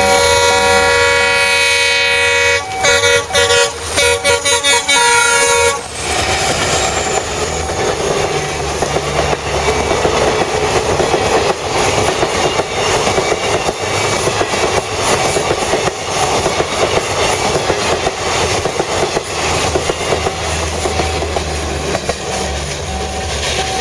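WDP4D diesel locomotive's horn sounding a long chord, broken into short blasts for the last few seconds before it stops about six seconds in. Then the express train's coaches rush past at speed, wheels clattering over the rail joints, in heavy rain.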